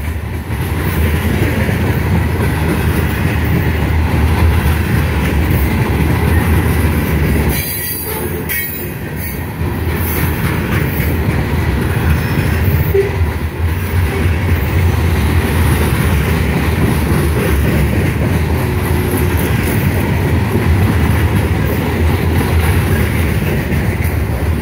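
Loaded covered hopper cars of a grain train rolling past at close range: a steady rumble of steel wheels on rail with a clack over the joints, and a thin squeal of wheel flanges against the rail.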